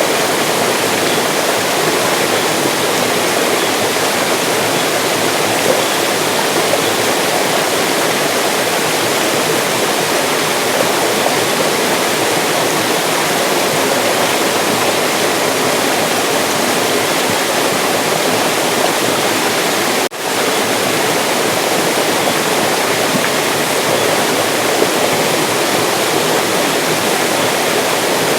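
Mountain stream flowing: a steady, loud rush of water that drops out for an instant about twenty seconds in.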